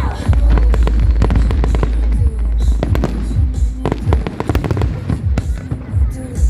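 Aerial fireworks bursting with rapid crackling, many sharp pops a second over a deep low rumble, with music playing.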